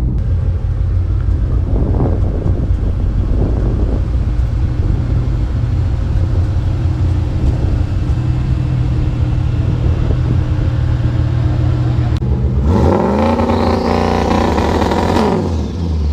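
Turbocharged Ford Coyote 5.0 V8 in a 2011 Mustang GT running with a steady low drone at cruise. Near the end its note rises and falls back once, briefly.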